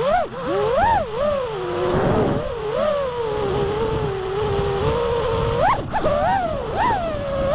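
FPV quadcopter's brushless motors whining, the pitch swooping up and down several times as the throttle is punched and eased off, over wind rumble.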